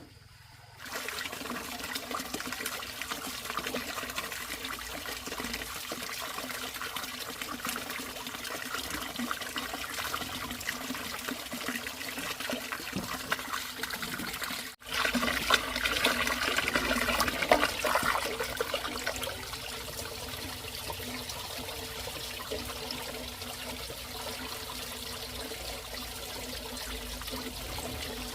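Running water, a steady splashing trickle that gets louder for a few seconds after a sudden break about halfway through.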